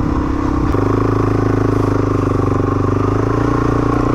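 Motorcycle engine running steadily on a sandy beach ride. Its note changes a little under a second in, dropping to a deeper, stronger tone that then holds steady.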